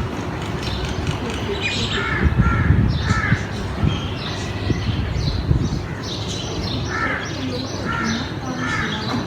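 Crows cawing repeatedly in short harsh calls, coming in quick runs of two or three, over a steady low rumble.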